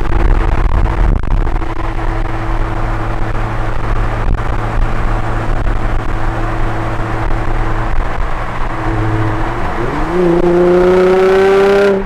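Nissan 350Z's 3.5-litre V6 running through high-flow catalytic converters and an aftermarket exhaust, at a steady low engine speed. About ten seconds in, the revs rise and are held at a higher steady pitch.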